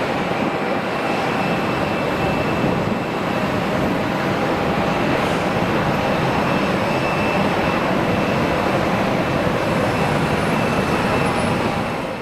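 Jet engines of an Airbus A320-214 (CFM56 turbofans) running after landing: a steady loud rush of engine noise with a faint high whine through it.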